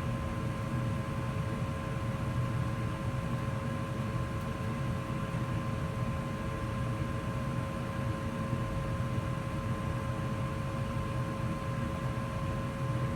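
2004 Goodman gas furnace running steadily in heat mode: a constant low hum and rush of air with a steady whine.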